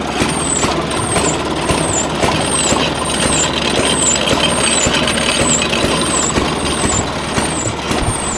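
Motor-driven ice cream freezer running, its drive turning the churn at slow speed, with a short high squeak repeating about one and a half times a second over the steady machine noise.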